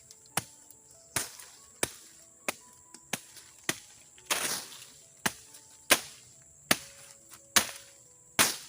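Regular sharp chopping strikes, roughly one every two-thirds of a second, with one longer, rougher blow about halfway through, over a steady high insect drone.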